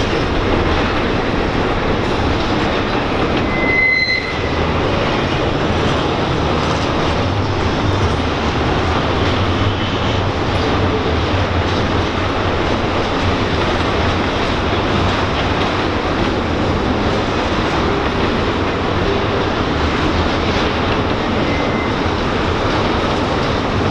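A Norfolk Southern intermodal freight train's cars rolling past on the rails in a steady, continuous rumble and rattle, with a short high wheel squeal about four seconds in.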